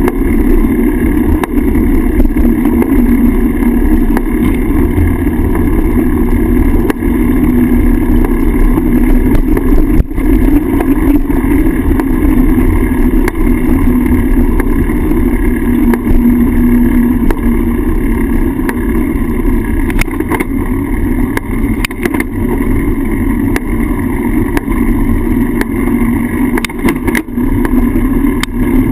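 Wind buffeting a handlebar-mounted GoPro's microphone while riding a bicycle, a loud steady rumble with road noise underneath. A few light clicks come in later on.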